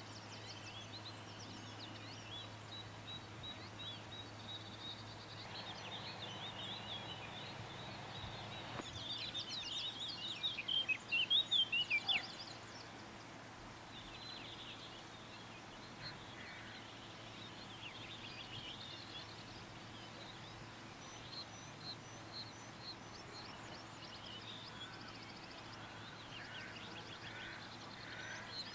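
Several birds singing and calling, with a louder run of rapid chirping trills about ten seconds in, over a faint steady low hum.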